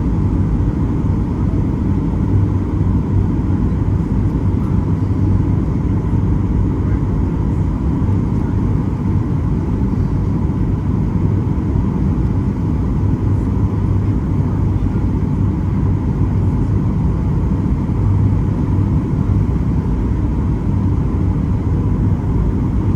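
Steady cabin noise inside a Boeing 737-800 airliner: an even low rumble from the CFM56 engines and airflow, with a faint steady tone above it.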